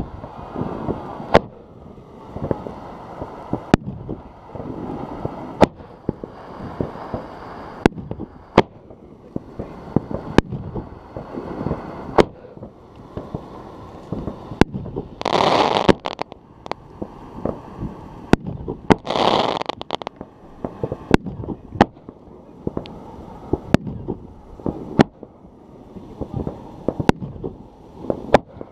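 Pyroco Brutus consumer firework cake firing shot after shot, with sharp bangs about once a second. Two longer rushing bursts of about a second each come a little past halfway.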